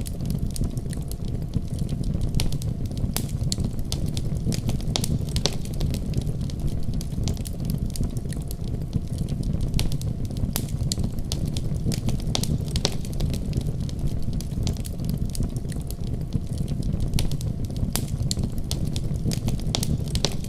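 Fireplace fire crackling: frequent sharp pops and snaps, several a second, over a steady low rumble of burning.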